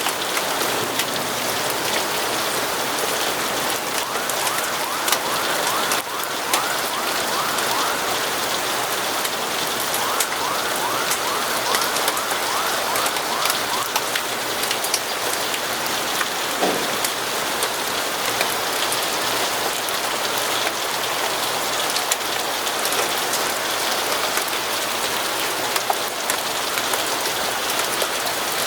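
Steady rain falling on a surface: an even hiss with many scattered drop taps.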